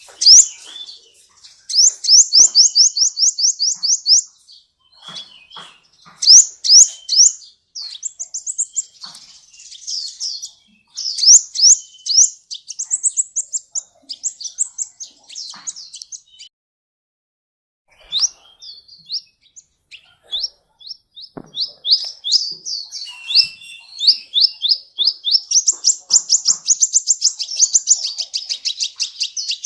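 Sunbird song: fast runs of sharp, high-pitched chirps, repeated in bursts, with a short pause past the middle.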